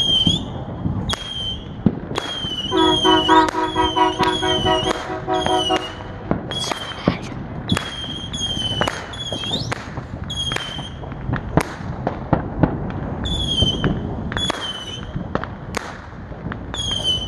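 Distant fireworks popping and banging over and over. A short high chirp repeats about once a second throughout, and a horn sounds a steady chord for about three seconds near the start.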